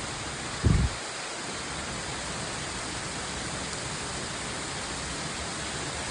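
Steady hiss of rain falling, with a brief low thump about two-thirds of a second in.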